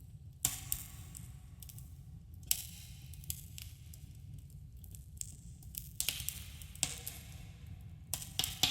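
Campfire burning with a low steady rumble and irregular wood crackles and pops, a cluster of sharper pops coming near the end. A subtle cave echo trails the pops.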